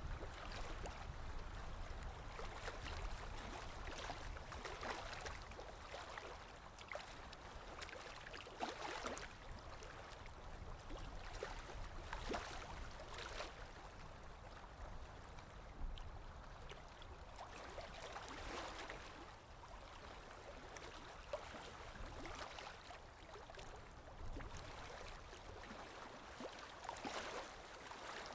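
Running water flowing and gurgling like a small stream, with swells every few seconds.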